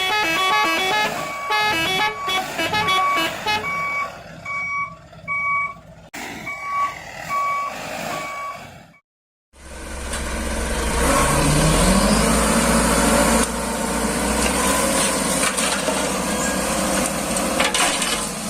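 Toy construction vehicle sound effects: electronic beeps, first a quick run of stepped notes and then a single reversing-style beep repeated about twice a second. After a short break comes a loud, steady engine rumble whose pitch rises once early on.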